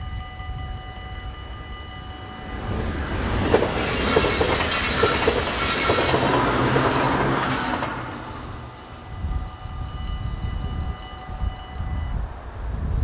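Dutch level-crossing bells ringing steadily while a passenger train passes over the crossing. The train's rumble and wheel clatter over the rail joints build about two and a half seconds in and fade by about eight seconds. The bells ring on and stop near the end.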